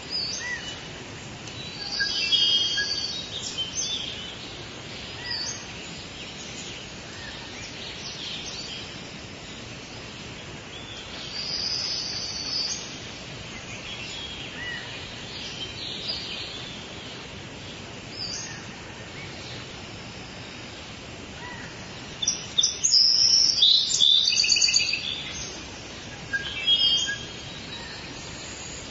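Songbirds singing and calling over a steady hiss, with busier spells of chirps and trills about two seconds in, around twelve seconds, and between about 22 and 25 seconds.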